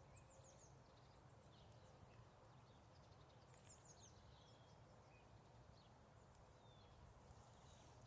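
Near silence with faint bird chirps: two short runs of quick, falling high-pitched chirps, near the start and about halfway, over a low steady outdoor hum.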